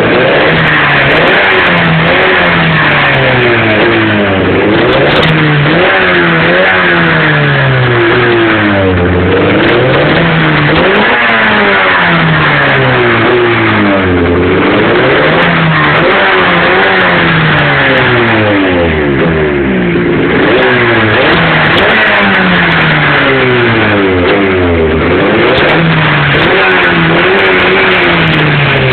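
Turbocharged 500cc two-stroke snowmobile engine being revved hard, its pitch rising and falling again and again every second or two.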